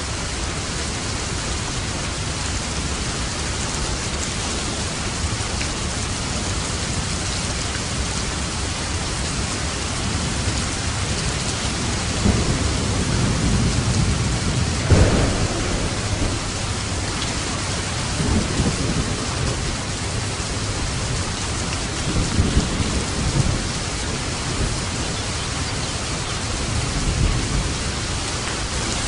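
Steady rain falling on a roof, with thunder rumbling in several rolls; the loudest roll comes about halfway through, and others follow near the two-thirds mark and near the end.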